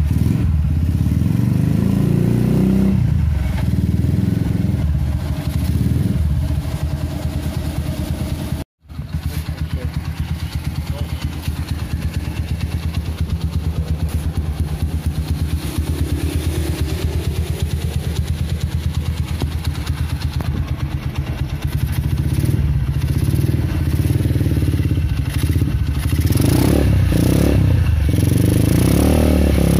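Single-cylinder Honda Megapro engine, bored up with a Herex 250cc kit, running through a PDK racing exhaust. It runs steadily at a low speed, and the sound cuts out for an instant about nine seconds in. In the second half it gets several short throttle blips that rise and fall.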